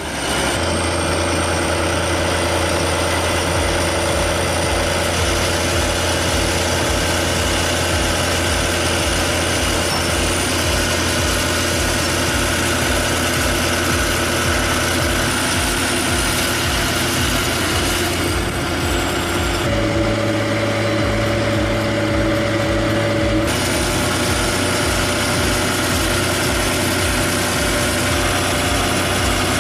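Heavy tractor engine running steadily at a constant speed, with no revving. The sound changes abruptly about twenty seconds in and again a few seconds later.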